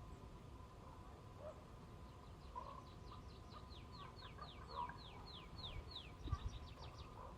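A songbird singing a run of falling whistled notes, about three a second, that ends in a quicker flourish of shorter notes. A few low bumps come near the end.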